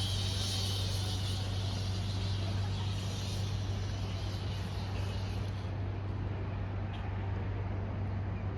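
Steady low engine hum of the park's tour train. A hiss in the upper range fades out about six seconds in.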